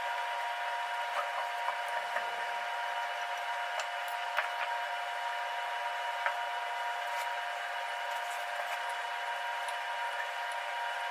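Steady, unchanging machine hum made of several held tones, with a few faint light clicks scattered through it.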